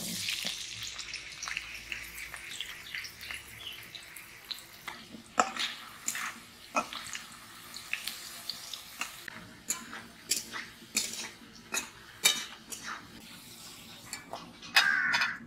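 Potato chunks sizzling as they drop into hot oil in a metal kadai. The hiss is strongest at first and thins over the first few seconds, then a spatula scrapes and knocks against the pan as the potatoes are stirred and fried.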